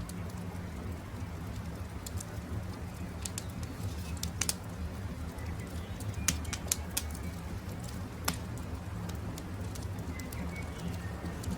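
Campfire crackling: sharp, irregular wood pops over a steady low rumble from the fire, with faint bird calls in the background, a few short chirps near the end.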